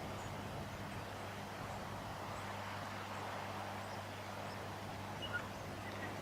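Steady low hum under a rushing background noise, with a few faint short bird chirps about five seconds in.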